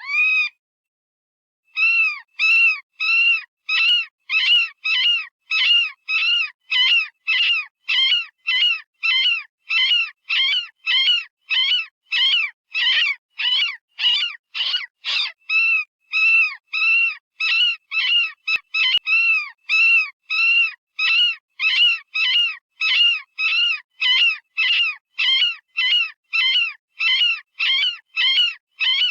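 Synthesized rabbit distress call from an animal-sound generator: a long series of short screaming cries, about two a second, each rising then falling in pitch. There is a brief pause about a second in.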